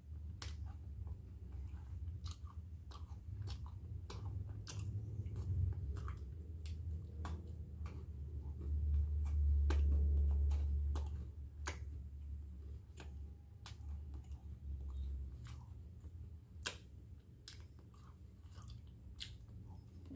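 Close-miked chewing of a mouthful of food, with frequent short wet mouth clicks and smacks, about one or two a second. A low rumble swells for a few seconds in the middle.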